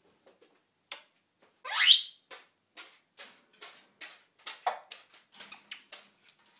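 African grey parrot calling: one loud rising whistle about two seconds in, then a run of short clicks and chirps a few per second.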